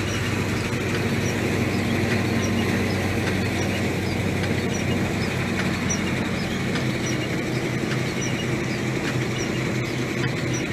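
A vehicle driving steadily: a low, even engine hum with continuous road and tyre noise.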